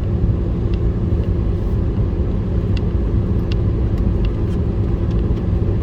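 Steady road rumble inside a moving car: engine and tyre noise with a low hum.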